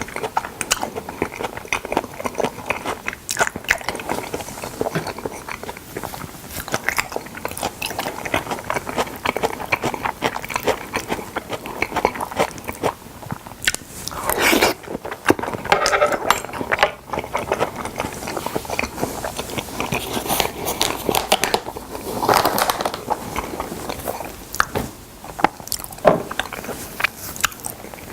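Close-miked chewing and biting while eating salmon: a dense, uneven run of short mouth clicks and bites.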